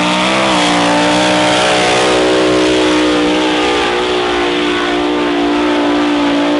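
Hill-climb car's engine at full throttle climbing a sand dune, held at high, nearly steady revs after a brief further rise about half a second in.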